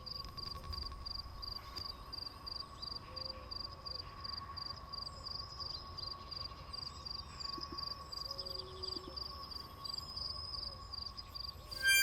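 Crickets chirping: a steady, fast-pulsing high trill with a lower steady insect tone under it, and a few faint short calls. Music comes in right at the end.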